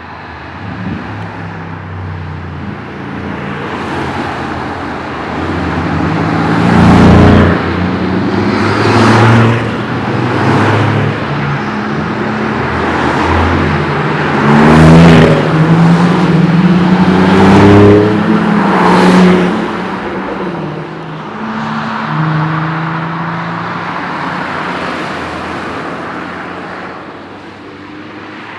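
A string of cars driving past one after another, each engine swelling and fading as it passes, with the loudest passes around the middle.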